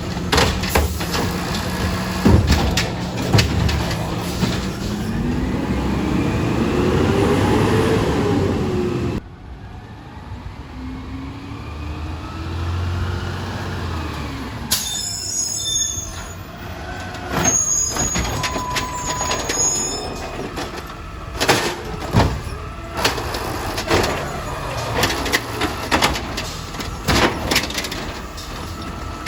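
Recycling garbage truck working: its engine revs with a pitch that rises steadily for about nine seconds, then drops off suddenly. Later come brief high squeals and a run of sharp knocks and bangs.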